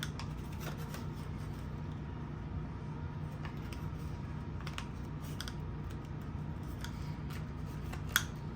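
Paper banknotes being handled and tucked into a cash envelope: scattered light clicks and rustles, with one sharper click near the end, over a steady low hum.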